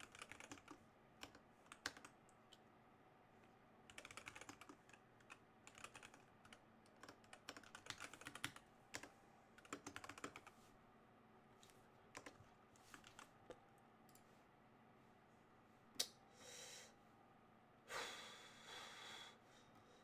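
Faint computer keyboard typing: irregular bursts of keystrokes with pauses between them. Near the end come two short, hissy, non-keystroke sounds.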